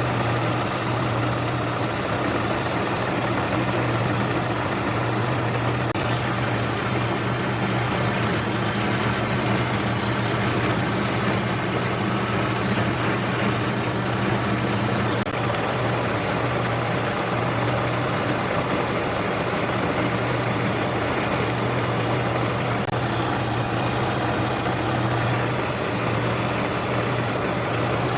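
Metal lathe running steadily while turning a part, a constant motor hum under the noise of the cut.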